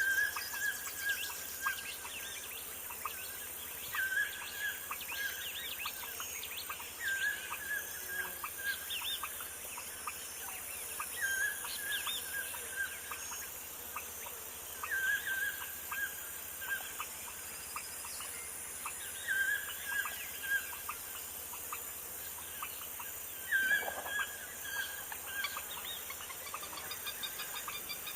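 Birdsong: one bird repeats the same short phrase about every four seconds, about seven times, with other high chirps scattered between.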